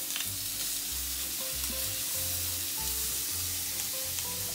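Chicken sizzling steadily in a frying pan while it is stirred and turned with chopsticks, with a few small clicks. Background music with a repeating bass line plays underneath.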